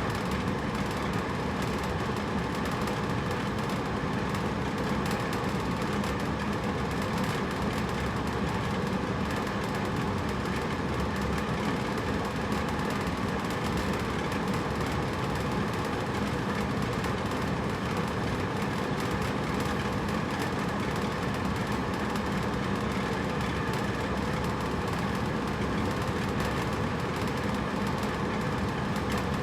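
Hotel room air conditioner running steadily: an even whooshing airflow with a faint constant hum from the unit.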